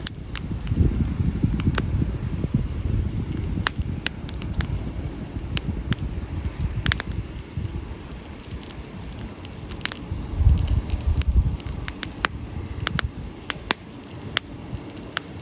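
Wood campfire burning, with irregular sharp crackles and pops scattered throughout over a low rumble that swells about a second in and again around ten seconds in.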